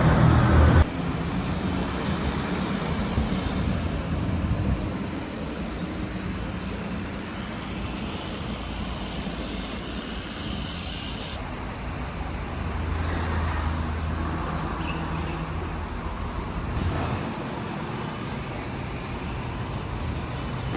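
Steady road traffic noise with vehicle engines passing, a low engine hum swelling for a couple of seconds past the middle. The background changes abruptly several times.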